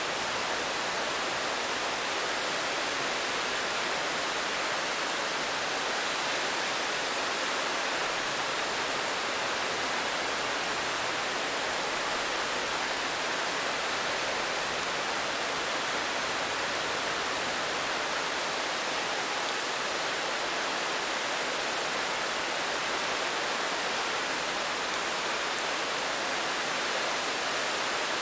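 Steady rain, an even unbroken hiss with no single drops or gusts standing out.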